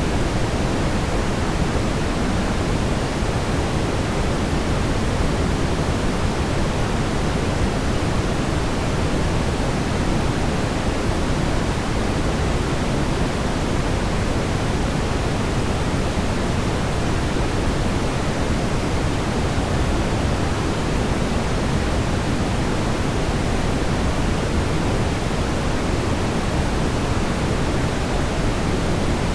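Steady brown noise: an even, deep rumbling hiss weighted toward the low end, unchanging throughout.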